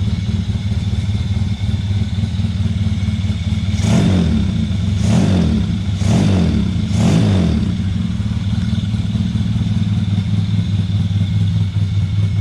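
Yamaha Jupiter underbone motorcycle converted to a two-cylinder engine with two spark plugs, idling steadily, then revved in four quick throttle blips about four to seven seconds in, each rising and falling in pitch.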